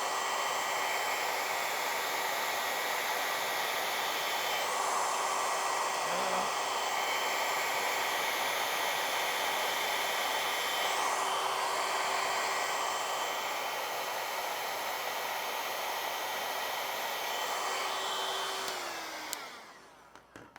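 Handheld hair dryer with no diffuser attached, running steadily and blowing air across wet pour paint. Near the end it is switched off and its motor whine falls in pitch as it winds down.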